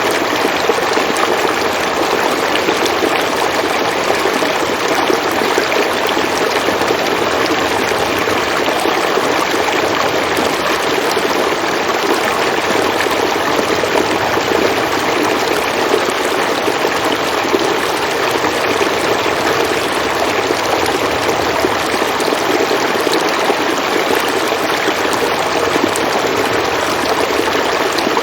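River water flowing over rocks: a steady, even rush and babble.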